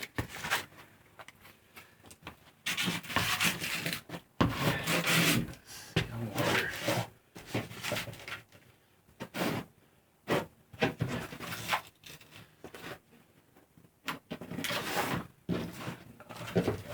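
Loose vinyl floor tiles being slid across a floor and set down, with irregular rubbing and scraping and a few sharp knocks.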